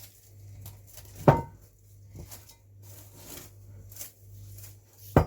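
Kitchenware being handled on a counter: two sharp knocks, one about a second in with a short ring, and one near the end, over a steady low hum.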